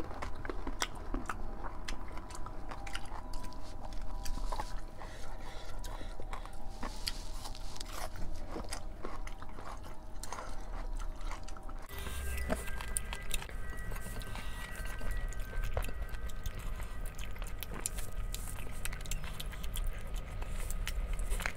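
People eating rice and mutton curry by hand: chewing with frequent small mouth clicks and smacks, as fingers mix the rice. Under it, soft background music of held notes changes to a higher set about twelve seconds in.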